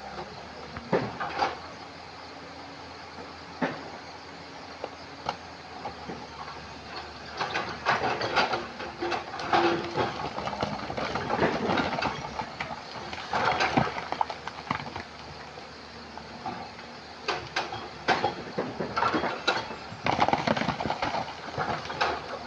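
Excavator working among stream-bed rocks: irregular clanks and scraping of stone against the steel bucket over the engine's steady running, busiest in the middle and again near the end.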